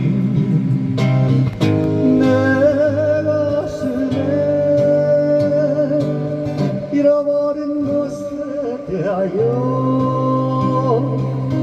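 Live singer holding long, wavering sung notes over acoustic guitar accompaniment.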